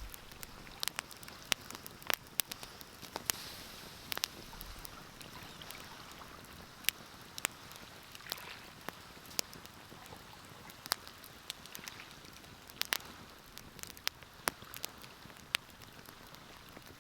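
Wood fire crackling in a fireplace: irregular sharp pops and snaps, some louder than others, over a soft hiss.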